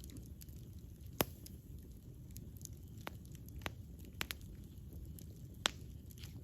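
Wood fire burning, with sharp crackles and pops every second or so over a low, steady rumble of flame. The loudest pops come about a second in and near the end.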